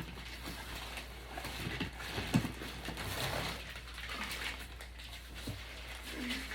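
Cardboard box and foam packing rustling and scraping as a Glowforge laser cutter is worked out of its shipping box, with scattered light knocks and one sharper knock about two and a half seconds in.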